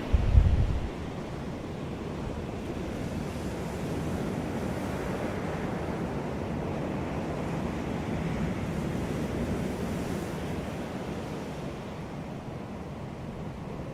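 Sea waves breaking and washing on a beach, a steady surf hiss that swells and eases slowly. In the first second a brief low rumble of wind buffeting the microphone is the loudest sound.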